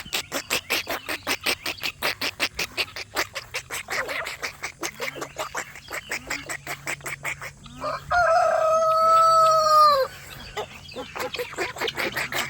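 Free-range poultry calling: a fast run of harsh repeated calls, about five a second, then a rooster crows once for about two seconds, about eight seconds in, louder than the rest, before the rapid calling resumes more quietly.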